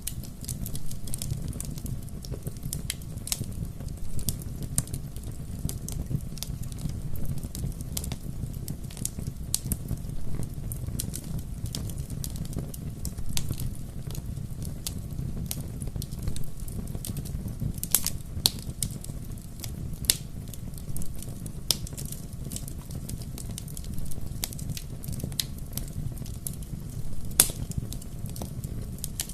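Bonfire crackling: a steady low rumble of burning wood with irregular sharp pops and snaps, a few louder ones standing out.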